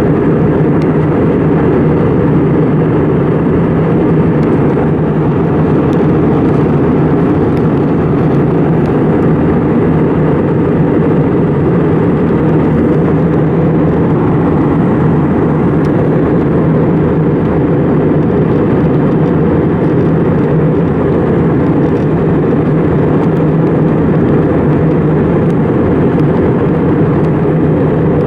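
Steady cabin noise of an Airbus A320 in flight: engine and rushing-air noise, low and even, with a constant hum and no change.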